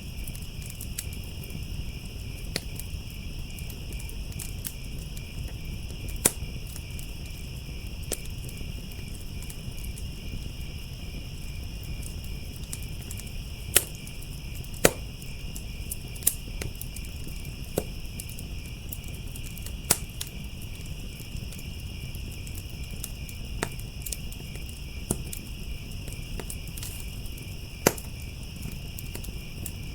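Crickets chirring steadily over a crackling wood fire, with irregular sharp pops and snaps from the burning wood, a few of them loud.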